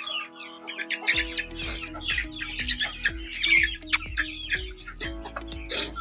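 Chickens clucking and small birds chirping over background music, whose low beat comes in about a second in.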